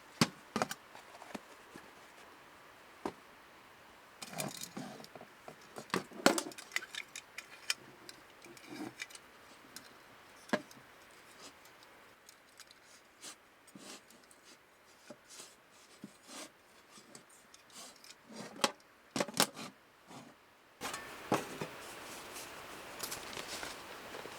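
Scattered clicks, clinks and short clatters of small objects being handled, over a quiet background that turns to a louder steady hiss near the end.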